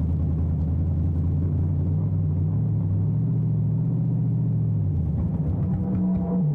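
Drag-racing Ford Anglia's engine idling with a steady low rumble, heard from inside the cockpit; its note dips slightly near the end.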